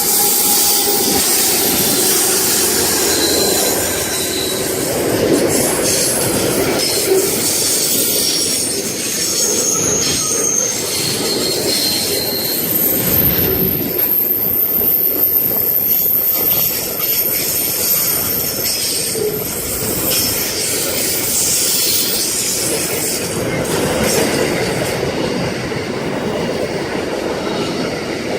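Freight train wagons rolling past at close range, with the steady rumble of wheels on rail and intermittent high-pitched wheel squeal that comes and goes.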